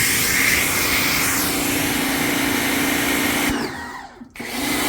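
Ryobi electric pressure washer running with the hiss of its water spray; about three and a half seconds in the motor winds down with falling pitch and stops, then starts up again under a second later as the trigger is pulled again.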